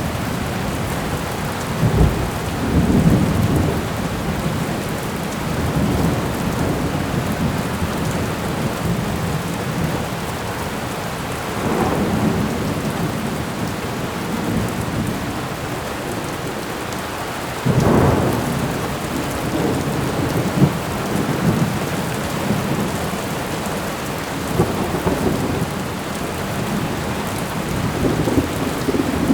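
Thunderstorm recording: steady heavy rain with rolls of thunder, the sharpest and loudest clap about eighteen seconds in and lesser rumbles around two to three seconds and twelve seconds in.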